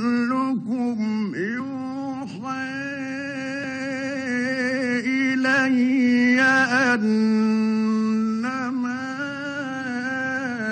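A man reciting the Quran in a slow, melodic chant, with ornamented pitch turns and long held notes. The recitation runs on in one long breath without a pause.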